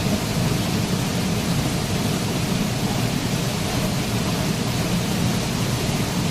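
Waterfall: a steady, even rush of falling water, heaviest in the low rumble.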